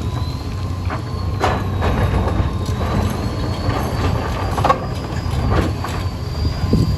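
Hitachi EX200 excavator working: a deep, steady diesel engine rumble under a thin, high hydraulic whine that slowly rises in pitch, with several sharp knocks and scrapes along the way.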